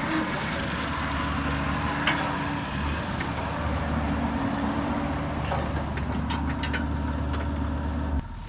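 Mini excavator's engine and hydraulics running steadily under load while a RUT hydraulic brush cutter head shreds brush, with a few sharp ticks of debris. The sound drops away suddenly near the end.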